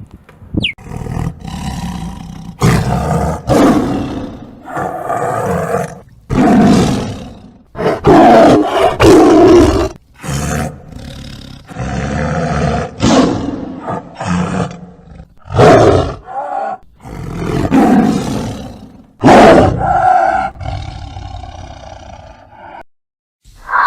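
A large animal giving a long series of loud, deep roaring calls, one after another with short breaks.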